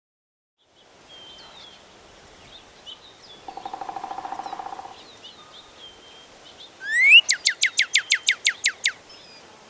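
Pileated woodpecker giving its loud call, a rapid run of about a dozen even notes, roughly six a second, starting about seven seconds in. Smaller birds chirp faintly throughout, with a buzzy trill about three and a half seconds in.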